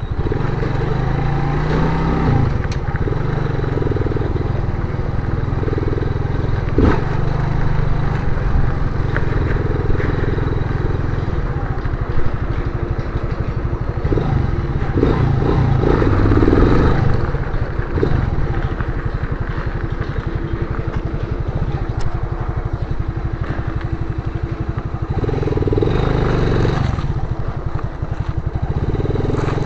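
Motorcycle engine running under way, its pitch rising and falling with the throttle, with several short bursts of revving.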